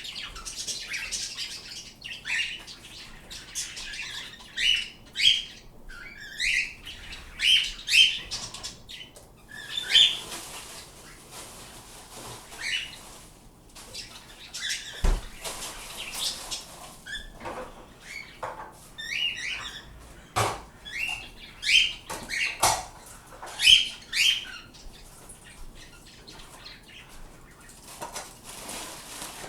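Small pet birds chirping and calling: many short, sharp, rising calls in quick runs, with a few brief knocks among them.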